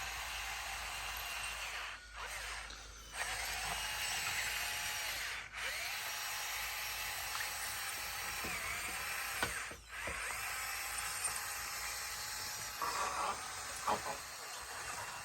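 Bulldozer working, its engine and drive running with a steady whine that dips in pitch and recovers several times. The sound breaks off briefly a few times, and there are a few sharper knocks near the end.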